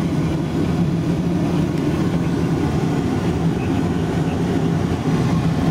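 Airbus A330 passenger cabin in flight: a steady rush of engine and airflow noise with a low, even hum.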